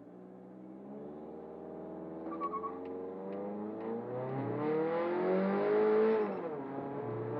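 Turbocharged Toyota Corolla Altis engine accelerating hard through its automatic gearbox. The revs climb steadily for about six seconds, drop at an upshift, then start climbing again. The driver complains that it keeps falling out of boost.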